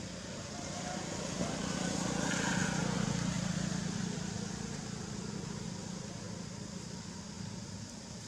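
A motor vehicle passing by: its engine and road noise swell to a peak about two to three seconds in, then slowly fade away.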